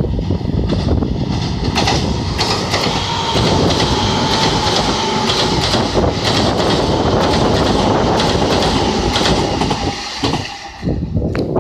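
Senboku Rapid Railway 7000 series electric trains passing each other, wheels clattering over the rail joints under a steady whine. The sound falls away about ten and a half seconds in.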